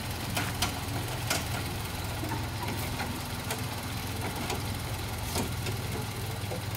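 A 1992 Toyota Kijang Super G's engine idling steadily, heard close to the open engine bay, with the big, thick-sounding idle typical of a Kijang. A few faint, irregular clicks sound over it.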